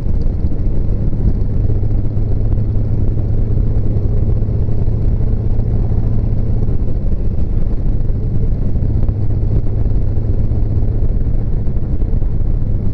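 Harley-Davidson Street Glide Special's V-twin engine running at a steady cruise, a constant low drone with road noise and no revving.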